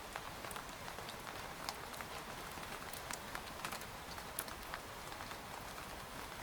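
Rain falling on a tent: a steady hiss with many individual drops tapping irregularly on the fabric.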